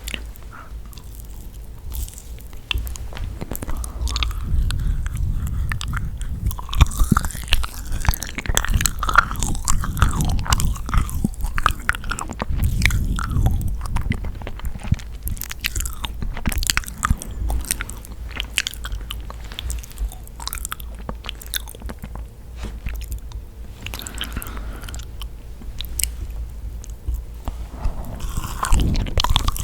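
Close-miked biting and chewing of sticky yakgwa, Korean honey-soaked fried cookies, with many wet, sticky mouth clicks and some crunch.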